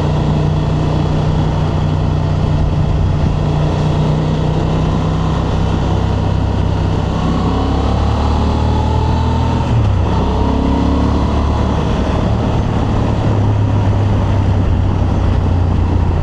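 Honda Transalp's 755 cc parallel-twin engine running steadily through its stock exhaust under way, with wind and road noise; the engine note shifts about ten seconds in.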